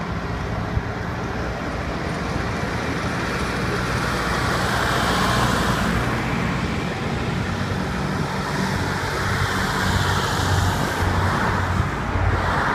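Tractor engines running steadily on the road, the sound swelling as tractors pass about five seconds in and again near the end.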